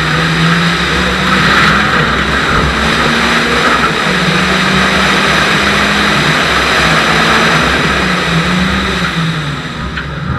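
Renault Clio RS rally car's engine running hard at high revs along a straight, heard from the car itself with heavy wind and road noise over it. The engine note is steady with small changes in pitch, and the sound eases off slightly near the end as the car slows for a bend.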